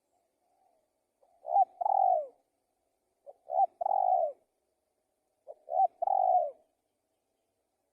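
Spotted dove cooing: three calls about two seconds apart, each a quick short note or two followed by a longer, falling coo.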